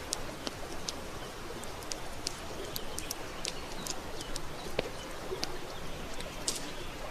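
Wood campfire crackling, with irregular sharp pops and snaps over a steady soft hiss of burning.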